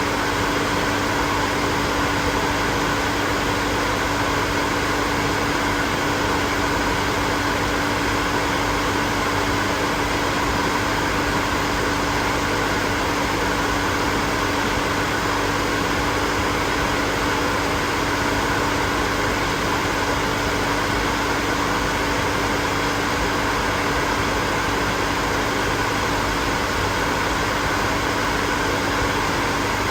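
Hair dryer running steadily: an even rush of blown air with a steady motor hum.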